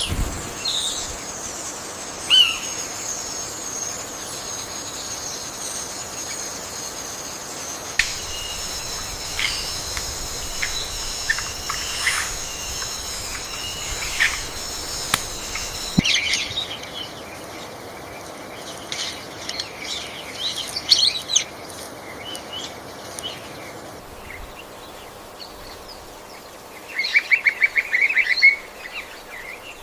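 Birds calling and chirping over a steady high ringing drone in a forest soundscape. The background changes abruptly about halfway through, and near the end a bird gives a fast trill of about ten notes a second.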